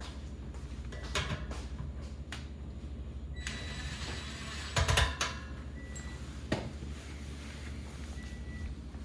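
Lower cover panel of a Sub-Zero refrigerator being fitted back on: scattered clicks, then a scraping clatter ending in a cluster of loud knocks about five seconds in. Underneath is the low, steady hum of the running compressor, and a short high beep repeats every couple of seconds.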